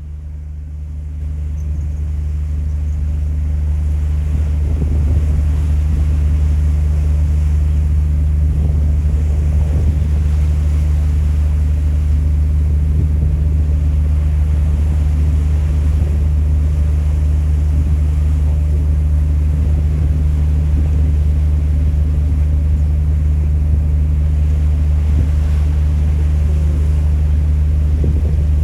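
Ferry engines droning with a steady low hum, with wind on the microphone and rushing water over it. The sound swells over the first few seconds, then holds steady.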